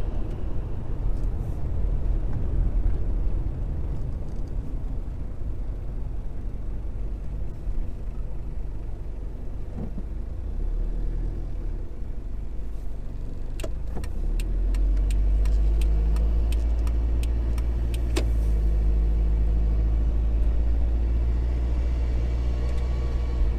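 Toyota Hilux Surf's 3.0-litre 1KZ-TE turbo diesel running with a deep, steady rumble. About 14 seconds in, the rumble steps up and gets louder, with a quick run of sharp clicks around then.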